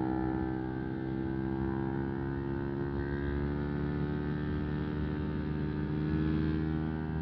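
Single-cylinder 125 cc motorcycle engine running at a steady cruise, its pitch easing down slightly in the first second and then holding even.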